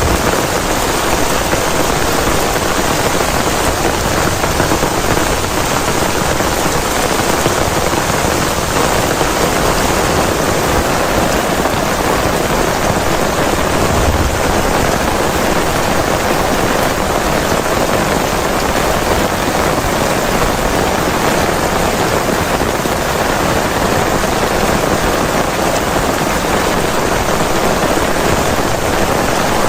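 Heavy rain falling steadily, a dense even hiss of water with no let-up.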